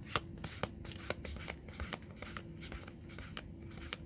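Magic: The Gathering trading cards being handled and flipped through one by one: a string of light, irregular clicks and slides of card stock, over a faint steady hum.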